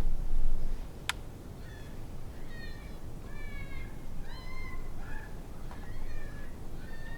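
Electronic predator call playing a rabbit distress call: a run of high, wavering squealing cries, repeated about once a second. A sharp click sounds about a second in.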